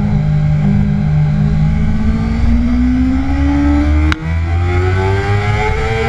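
2009 Kawasaki ZX-6R's inline-four engine accelerating hard in second gear out of a corner, its pitch rising steadily, over rushing wind; a brief click and dip in level about four seconds in, then the climb goes on.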